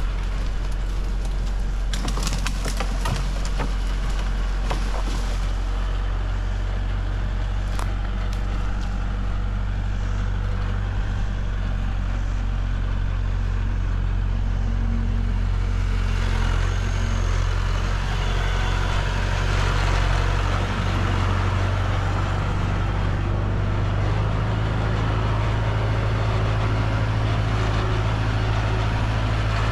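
Tractor engine running steadily with a low drone, with a cluster of sharp knocks and rattles a few seconds in and another shortly after.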